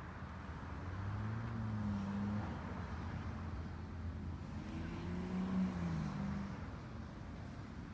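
A motor vehicle's engine running with a steady low hum, its note swelling and shifting in pitch twice.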